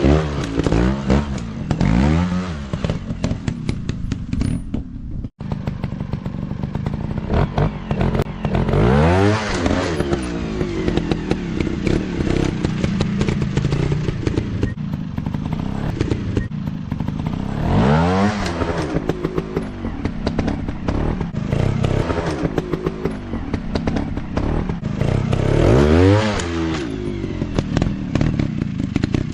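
Dirt bike engines running, with repeated surges that rise and then fall in pitch, several times over.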